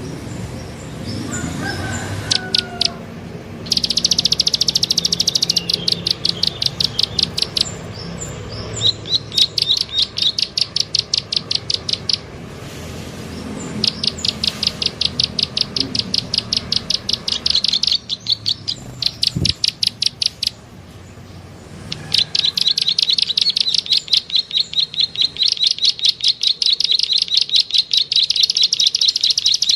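Bird lure recording of a small bird's clicking call: long rapid trains of sharp, high clicks, about ten a second, repeated in bursts of a few seconds with short pauses between them.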